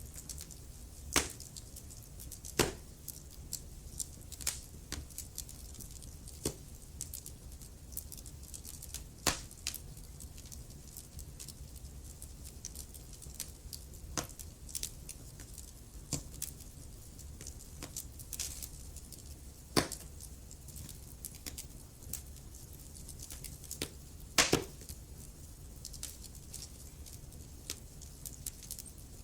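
Wood fire in a fireplace crackling: irregular sharp snaps and pops, a handful of them louder, over a low steady rumble.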